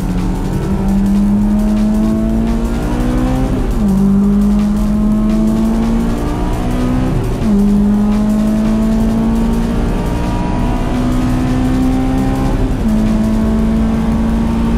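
Honda S2000's four-cylinder engine under hard acceleration. Its pitch climbs steadily through the revs and drops sharply at each of three upshifts.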